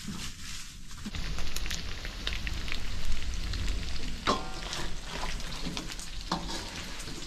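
Chicken leg pieces sizzling as they fry in hot oil in a pan, with a few short scrapes of the spatula stirring them. The sizzle grows louder about a second in.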